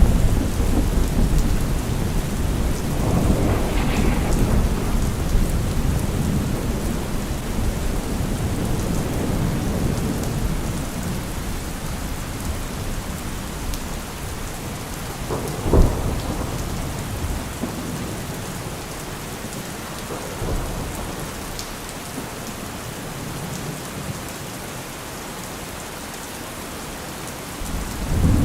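Steady rain with thunder rolling: a deep rumble that slowly dies away over the first ten seconds or so, a sharp crack about sixteen seconds in, and a new loud thunderclap right at the end.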